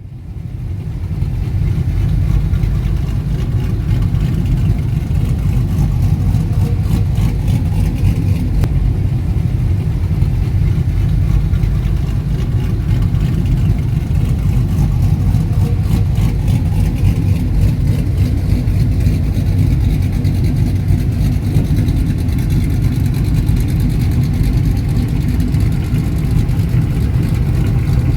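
Truck engines running with a steady, deep rumble.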